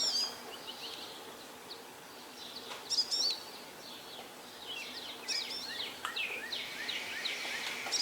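Wild birds chirping: clusters of short, quick up-and-down calls, the loudest about three seconds in, over faint steady background noise.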